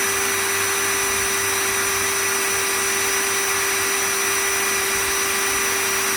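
Electric drill running at a steady high speed with a constant whine, drilling a hole through a metal beam connector into the metal beam.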